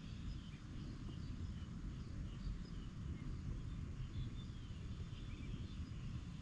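Small birds chirping intermittently with short, high notes, some sliding, over a steady low rumble.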